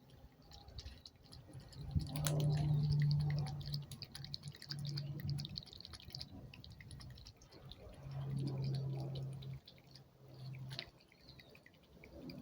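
Cat lapping water from a dish: a quick run of small wet clicks. A low hum comes and goes several times underneath and is the loudest sound.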